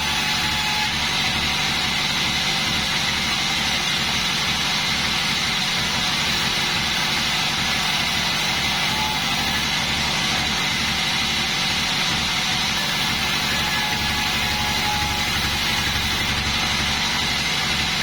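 Engine of a homemade bandsaw sawmill running steadily, with a low even pulse and a thin, steady high whine over it.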